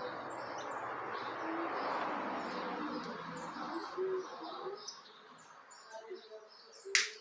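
Small birds chirping repeatedly, over a broad rushing noise that fades after about four seconds. A single sharp click comes near the end.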